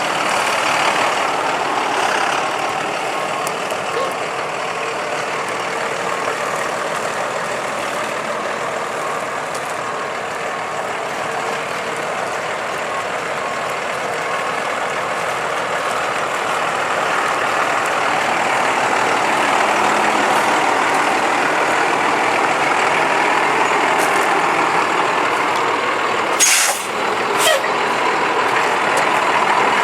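1995 Ford F-Series box truck's Cummins 12-valve diesel running while the truck is driven, a steady engine noise that grows slightly louder in the second half. Near the end come two short, sharp hisses of air from its air brakes.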